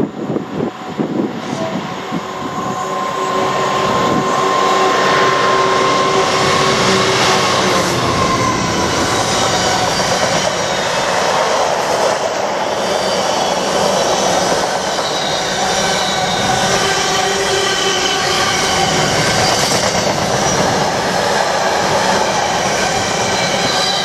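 A Freightliner Class 66 diesel locomotive, a two-stroke V12, passes at speed hauling a container freight train, followed by a long rake of loaded container flat wagons rolling past. The noise builds over the first few seconds as the train comes near, then holds as a steady rush and rumble of wagon wheels on the rails.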